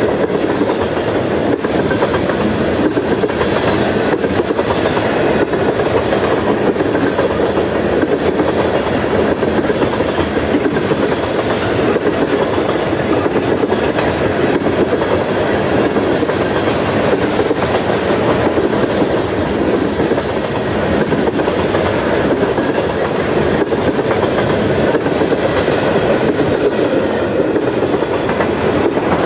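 Norfolk Southern freight train cars rolling past on the track, a loud, steady running noise of wheels on rail that lasts throughout.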